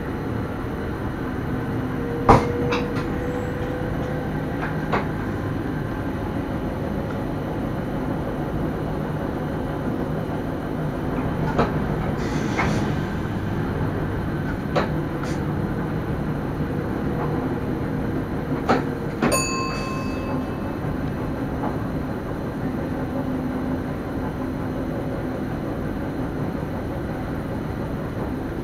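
Cab of an NS Sprinter electric train running, heard from inside: steady rolling noise with a low hum, broken by scattered sharp clicks and knocks, the loudest about two seconds in. A short high tone sounds for about a second, some nineteen seconds in.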